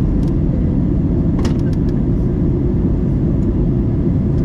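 Steady low roar of an airliner in flight on its descent, heard from inside the passenger cabin, with a few faint clicks about a second and a half in.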